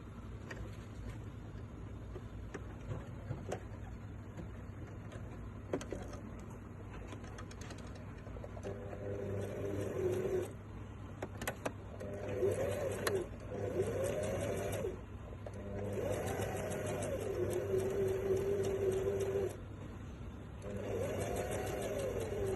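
Electric sewing machine stitching in several short runs, its motor pitch rising and falling as the speed changes, with fast rhythmic needle ticking. Before that come a few scattered clicks from handling the machine and fabric.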